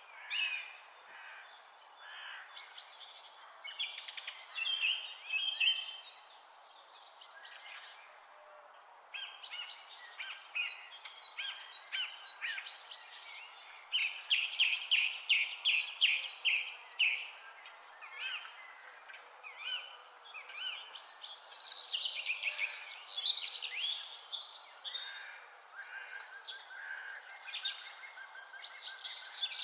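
Several songbirds chirping and trilling over a steady background rush, with a rapid run of repeated notes in the middle and a burst of song near the end.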